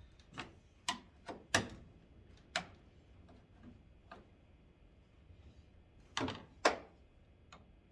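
Scattered sharp clicks and knocks of hand tools and plastic trim parts being handled while taking apart a pickup truck's headlight surround: several in the first few seconds, then a louder pair about six seconds in.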